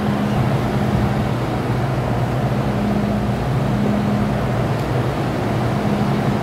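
MTR M-Train running on the Island Line, heard from the cab: a steady rumble of wheels on rail, with a low hum that fades in and out several times.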